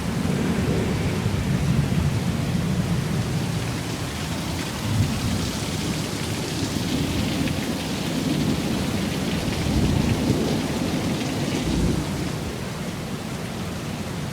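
Heavy rain pouring down steadily in a severe thunderstorm, with a low rumble of thunder underneath that swells slightly about five and ten seconds in.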